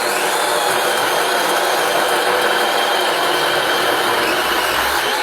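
A motor running steadily at a constant speed. It starts abruptly and cuts off abruptly.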